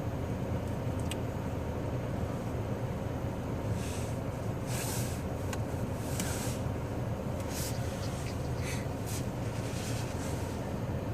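Lada Kalina idling, heard from inside the cabin as a steady low rumble, with a few brief faint hisses and light clicks over it.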